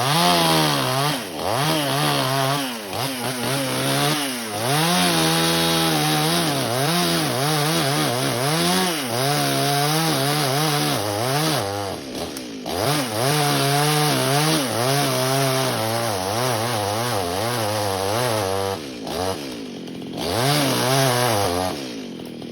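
Chainsaw engine cutting wood, its pitch repeatedly rising and falling as the throttle is worked and the chain loads up in the cut. The engine eases off briefly about halfway through and again a few seconds before the end.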